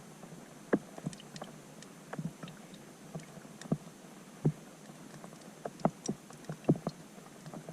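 Raindrops striking a pond's surface, heard from underwater through a GoPro's housing: irregular plinks and taps, several a second, over a steady hiss.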